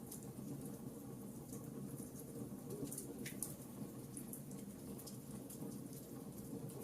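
Wood fire burning in a fireplace, crackling with frequent small sharp pops over a low, steady rush of flames.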